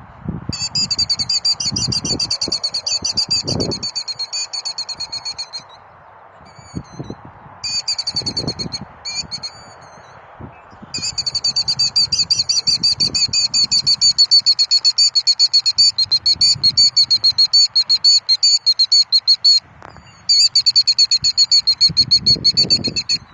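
An agitated bird calling in long, fast, high trills of rapidly repeated notes, in four bouts: one of about five seconds, two short ones, and one of about eight seconds near the end.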